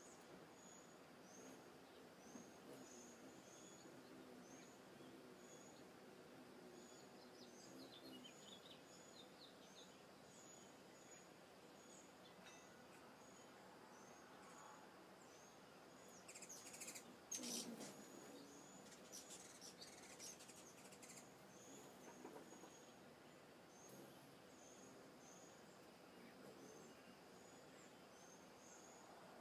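Faint outdoor ambience with a bird giving a short high chirp over and over, a few other chirps scattered in, and a brief louder noise about two-thirds of the way through.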